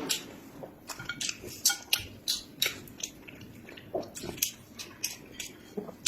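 Close-up eating sounds: a person chewing food, with repeated short, irregular mouth clicks and smacks.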